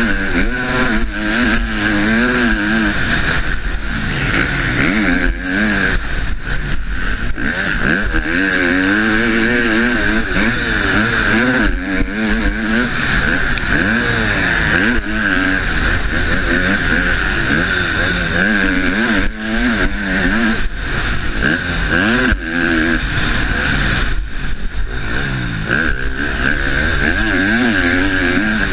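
Husqvarna motocross bike engine revving up and falling back again and again as the throttle is opened and shut, with a few short drops in pitch. A steady high hiss runs under it, heard from a helmet-mounted camera.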